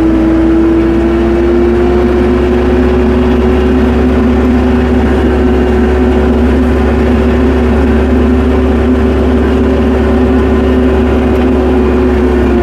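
Tractor engine running steadily at a constant speed: a low rumble with a steady tone over it, holding even the whole time.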